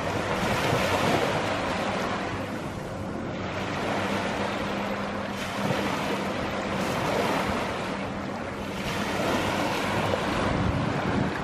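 Ocean surf washing onto a sand beach, the wash swelling and falling back about three times, with a faint steady low hum underneath.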